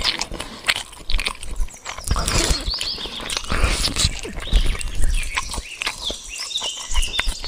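Animal sound effects: animals chewing and crunching feed, with short chirping calls mixed in.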